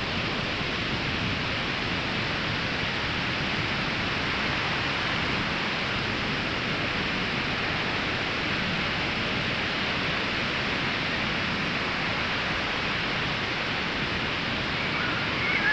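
Ocean surf on a sandy beach: a steady, even rush of breaking and washing waves with no single crash standing out.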